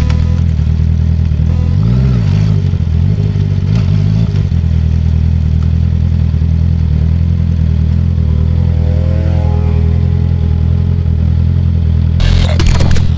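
Honda CB650R inline-four running through a full Akrapovic titanium exhaust with the dB killer out. It gets two short throttle blips in the first few seconds, then settles to a steady idle. Near the end there is a short clatter.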